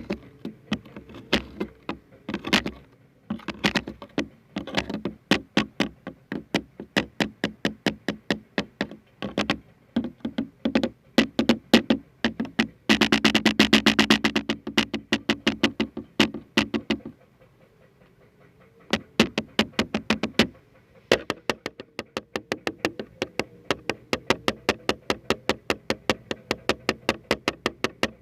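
Rapid tapping, several sharp taps a second, with a faster run of taps about halfway through and a brief lull a little after.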